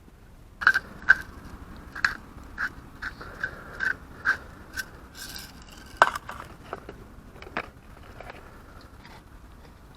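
A metal fork or utensil clinking and scraping against a metal pan, about a dozen sharp clicks, each with the same short ring. The strongest come about half a second, one second and six seconds in.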